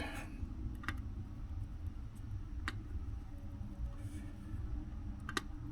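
Three faint, sharp ticks a couple of seconds apart, over a steady low hum.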